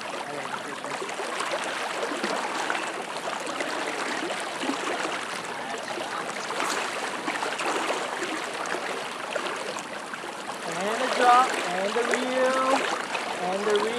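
Steady rushing of a high, flood-swollen river: an even hiss of fast-moving water.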